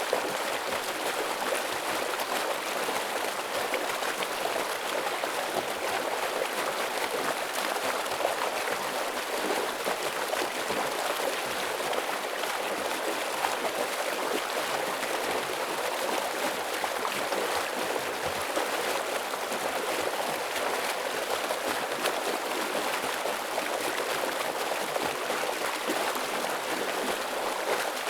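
A stream in heavy flow, its water rushing steadily and evenly with no pauses.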